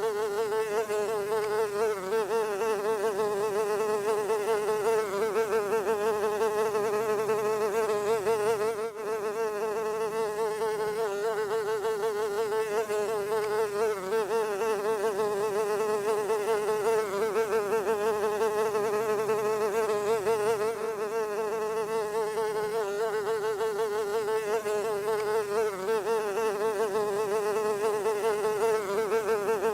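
A fly buzzing continuously: a steady, wavering buzz that dips briefly about nine seconds in.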